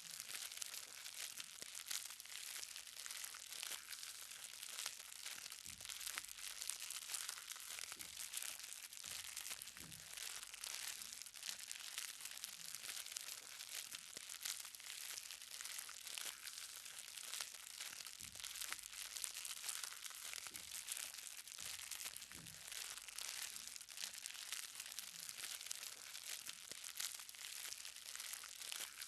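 Light rain: many small drops pattering on the ground in a steady, dense crackle of fine ticks.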